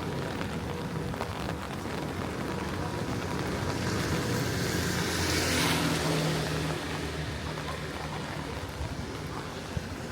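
Steady rain, with a vehicle passing on a wet road: its tyre hiss and engine swell up to a peak about halfway through and fade away.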